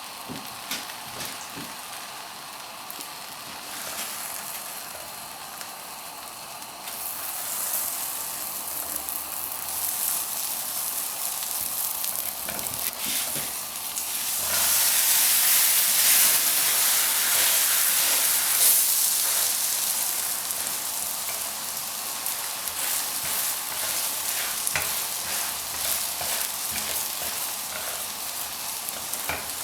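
Butter sizzling under a stuffed radish (mooli) paratha as it fries, a steady hissing that swells to its loudest about halfway through, with a few light clicks.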